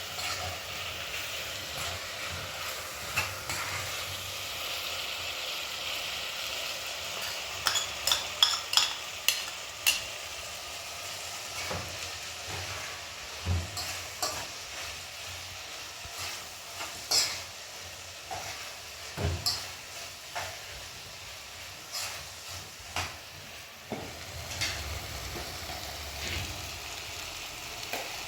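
Food sizzling as it fries: a steady hiss with scattered clicks and knocks of a utensil, and a quick run of sharp clicks about eight seconds in.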